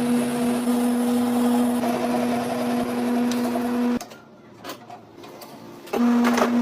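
A workshop machine's electric motor running with a steady hum. It cuts off abruptly about four seconds in, leaving a quieter stretch with a few faint knocks, and starts again near the end.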